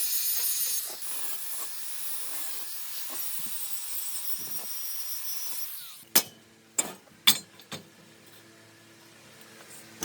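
A steady high-pitched hiss that cuts off about six seconds in, followed by a few sharp knocks.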